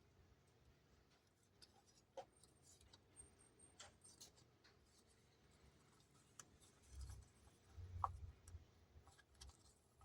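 Near silence with faint handling sounds: scattered light clicks and taps, and a couple of soft low thumps about seven and eight seconds in.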